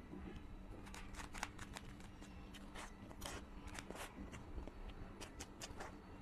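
Faint close-miked eating sounds of birthday cake being chewed: irregular soft mouth clicks and smacks, about two a second, over a low steady hum.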